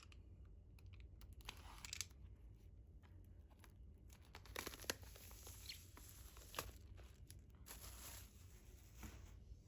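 Faint tearing and crinkling of plastic shrink-wrap as an album package is unwrapped, in short rustling bursts with small crackles between them.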